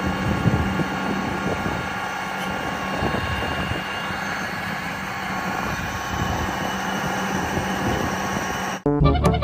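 A steady engine drone with a constant whine, cutting off abruptly near the end; bouncy music starts right after.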